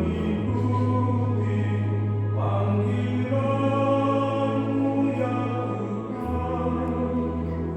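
Church choir singing a hymn over an accompaniment of long held low bass notes, which change about half a second in and again near six seconds in.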